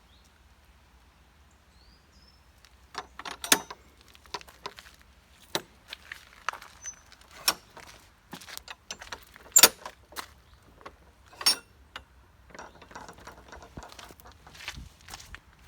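Footsteps crunching on a stony path: irregular sharp crunches and clicks about once a second, starting about three seconds in.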